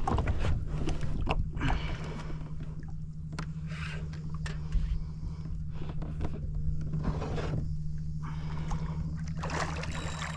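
Irregular splashing, scraping and knocking against a kayak hull, over a steady low hum.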